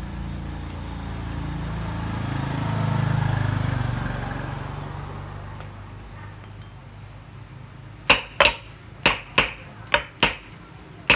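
A low hum swells and fades over the first few seconds, then metal parts are struck or tapped together in a quick run of about eight sharp clinks, about three a second.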